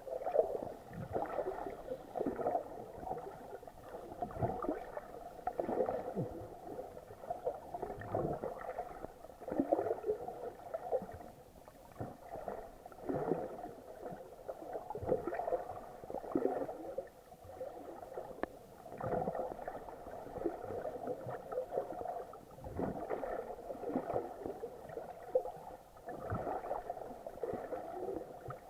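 Muffled water gurgling and sloshing around an action camera's waterproof housing while snorkeling, coming in irregular surges a second or so apart, dull with little treble.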